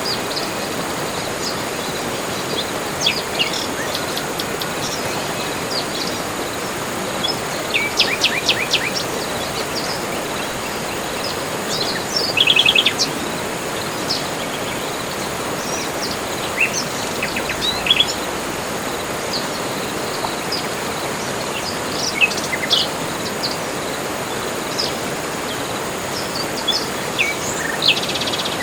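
Forest birds chirping and giving short rapid trills at scattered moments, over a steady background hiss.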